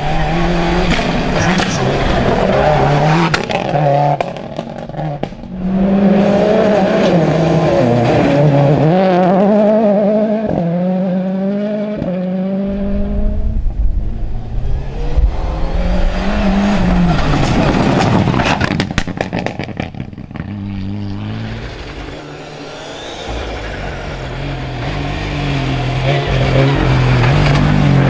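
Rally cars at full throttle on a gravel stage, engines revving hard and climbing in pitch through the gears, with a drop at each gear change. Several climbs and passes follow one another, with a quieter lull about two-thirds of the way through before the engine noise builds again.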